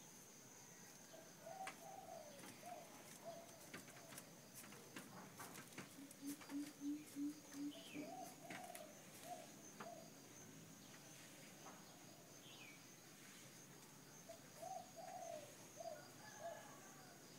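Birds calling, with a quick run of about six low cooing notes midway. A higher call phrase comes three times, with a few short chirps and faint scattered clicks, over a faint steady high whine.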